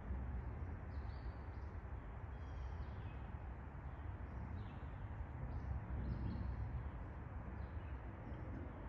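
Small birds chirping in woodland, with short high calls scattered through, over a steady low rumble.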